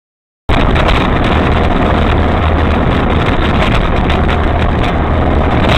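Steady engine drone and road noise of a moving vehicle, picked up by a dashcam. It starts abruptly about half a second in, after silence.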